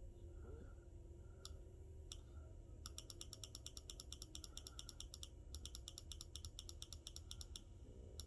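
Computer mouse clicking: a couple of single clicks, then two quick runs of about five clicks a second, stepping through forecast frames, over a faint low hum.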